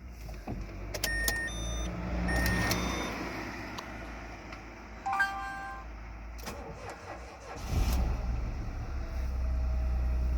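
Dacia Logan's 0.9 TCe three-cylinder turbo petrol engine started from cold at −10 °C: dashboard warning chimes sound several times, then about eight seconds in the starter cranks briefly and the engine catches and settles into a steady idle.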